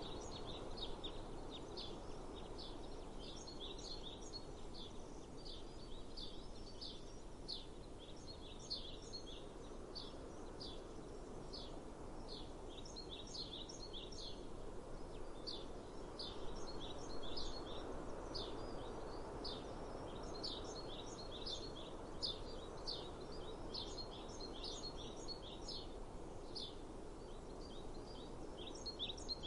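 Small birds chirping rapidly and continuously over a steady outdoor hum of breeze and distant background noise.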